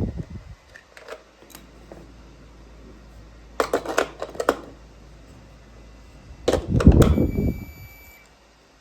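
Plastic toy pieces clattering and clicking as they are handled, in three short bursts. The last burst is the heaviest, and a faint high steady tone sounds for about a second near the end.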